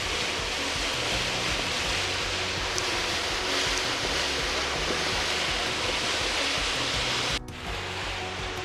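Steady rushing noise of wind and water around a moving riverboat, with low droning tones underneath. The sound breaks off abruptly about seven and a half seconds in and resumes a little quieter.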